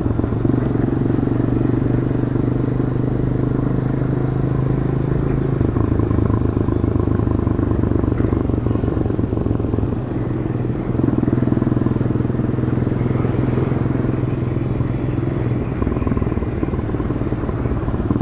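Demak DTM 150 motorcycle's single-cylinder four-stroke engine running through its stock exhaust while riding, heard from a helmet chin mount. The engine note drops slightly about six seconds in, then holds steady.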